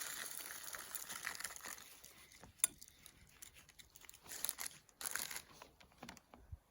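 Loose birdseed rustling and crunching as a peanut-butter-coated pine cone is rolled and pressed in it, with a sharp click about two and a half seconds in and two short bursts of rustling near the end.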